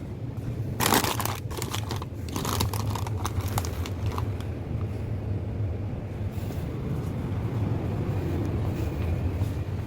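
A steady low machine hum with rustling, crinkling and a few knocks in the first half, like packaging being handled.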